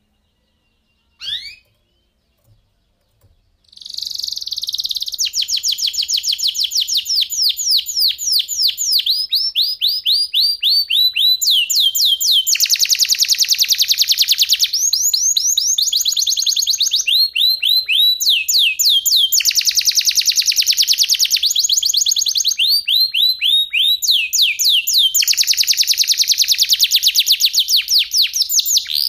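Domestic canary singing a long, unbroken rolling song: fast trills of repeated high notes in changing phrases, some rising, some falling. It starts about four seconds in, after one short chirp.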